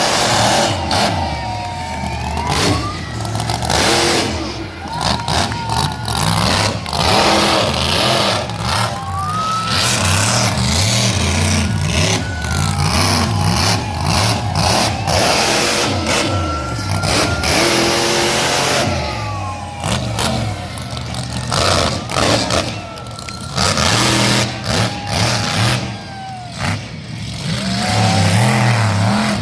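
Monster truck engine revving hard, its pitch climbing and falling again and again, with many sharp cracks.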